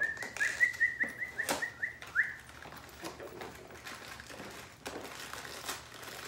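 A bird chirping: a quick run of about ten short, rising chirps at one pitch, lasting about two seconds. After that, faint rustling and small clicks as a cardboard brownie-mix box is opened and the bag inside handled.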